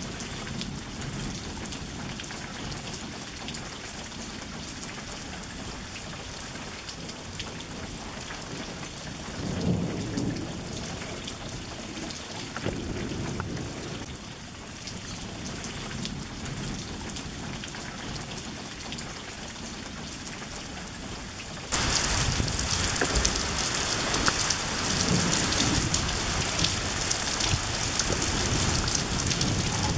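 Heavy rain falling and pouring off a roof edge, a steady hiss, with low rumbles about ten and thirteen seconds in. A little past twenty seconds the rain suddenly gets louder and stays that way.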